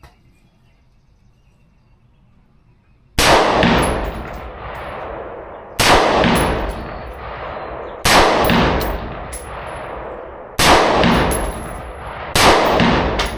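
Five single shots from a 7.5-inch-barrel AR pistol in .223/5.56, fired slowly about two to two and a half seconds apart, each very loud with a long ringing echo that dies away.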